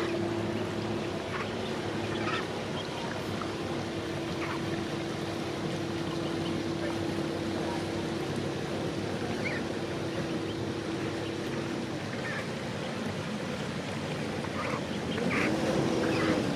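Steady hum of a river cruiser's engine under short calls of ducks or geese. The hum stops about twelve seconds in, and a second engine hum comes in near the end.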